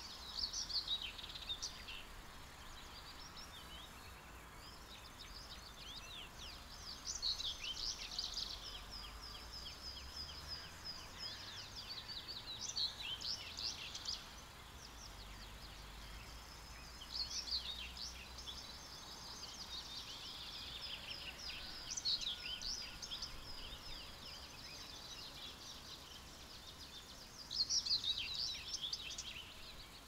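Songbirds singing in short chirping and trilled phrases that come every few seconds, the loudest burst near the end, over a faint low rumble.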